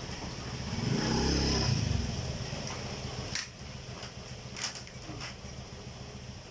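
A motor vehicle engine passing, loudest about a second in and then fading, over a steady hiss. A few sharp clicks follow in the second half.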